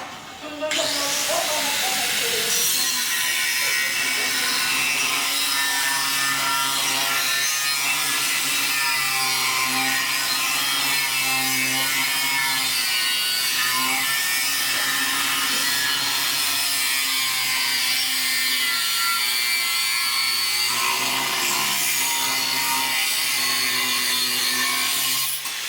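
Metalworking tool working steadily with a harsh hiss over a low steady hum. It starts just after the start and stops shortly before the end.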